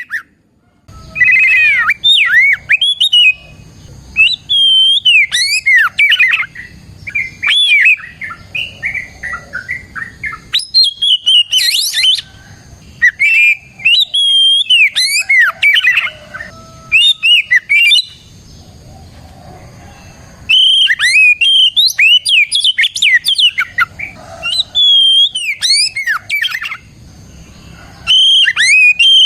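Oriental magpie-robin (kacer) singing loud, varied whistled phrases full of quick sliding notes, in runs of song with short pauses between them.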